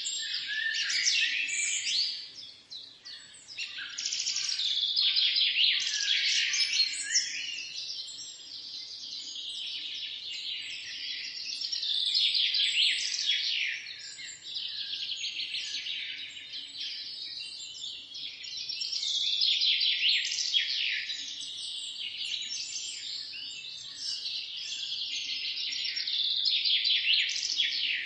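Many small birds chirping together in a dense, continuous chorus of quick overlapping calls, swelling and easing every few seconds, with a brief lull about two seconds in.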